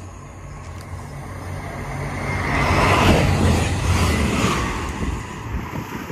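DSB IC3 diesel multiple unit passing through the station at speed. A low rumble and a rushing wheel-on-rail noise build to a loud peak about three seconds in, then fade as the train pulls away.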